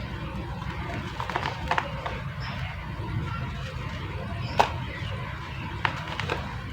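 Water pouring onto soft mud or cement on concrete as the shape breaks up: a steady low rumble with a handful of sharp crackles and clicks, the clearest about halfway through.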